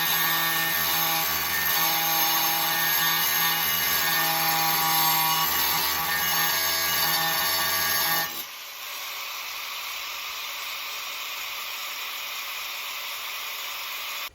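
Cutoff wheel running with a steady whine while trimming a steel oil-pan windage tray. About eight seconds in it drops away suddenly to a quieter, even hiss.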